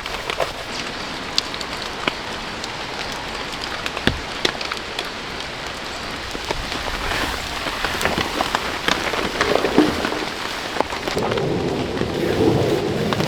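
Steady rain falling in a forest, with many individual drops ticking sharply close by.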